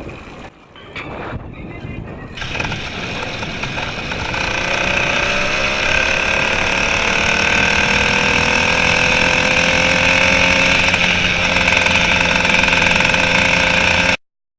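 Two-stroke engine of a kit-motorized bicycle running after a few uneven bursts, then pulling steadily with its pitch rising slowly as the bike gathers speed. It cuts off suddenly near the end.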